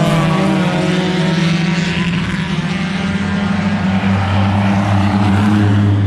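Four-cylinder track cars running hard at high revs on a race track, their engine notes held steady; a second, lower engine note joins about four seconds in.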